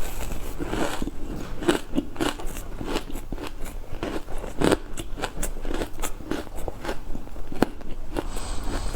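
Frozen green matcha ice being bitten and crunched up close, a dense run of crisp, powdery crunches and crackles.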